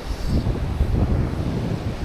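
Wind buffeting the microphone in uneven low gusts, over the steady rush of a mountain stream.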